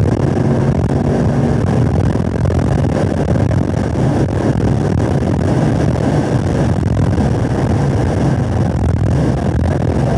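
2017 Camaro SS 1LE's 6.2-litre V8 at high revs under hard acceleration, heard from inside the cabin with wind and road noise, going up a gear and then back down a gear under braking near the end.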